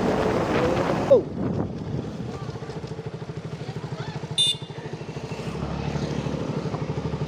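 Motorcycle engine running at low speed with an even pulsing exhaust beat, picking up again near the end. A sudden short thump about a second in and a brief high-pitched beep about four and a half seconds in.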